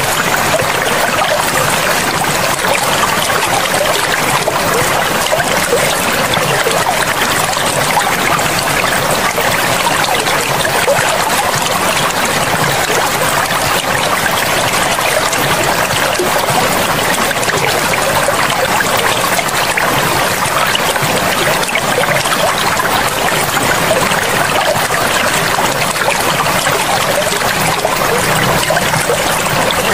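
Forest river flowing, a steady, even rush of running water.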